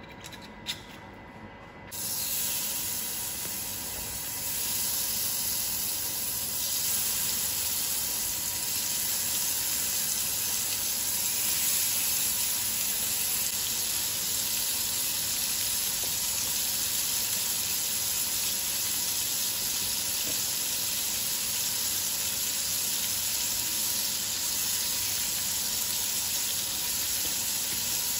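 Marinated pork belly pieces frying in hot oil in a pan: a sizzle that starts suddenly about two seconds in, after a light click, steps louder twice over the next few seconds, then stays steady.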